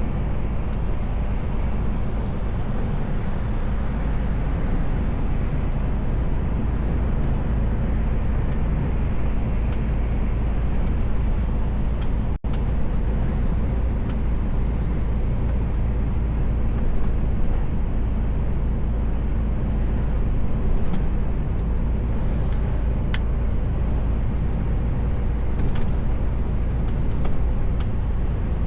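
Steady low rumble of a Mercedes-Benz Actros L truck under way, with engine and road noise heard from inside the cab. The sound cuts out for an instant about twelve seconds in.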